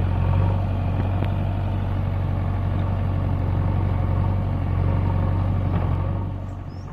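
Tractor diesel engine running steadily with a deep, even hum, fading about six seconds in.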